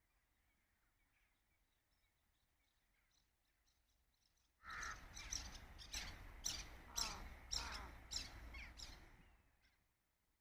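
A bird calling loudly in a rapid series of about seven harsh calls, starting suddenly almost halfway through and fading out near the end, after a stretch of faint, distant chirping.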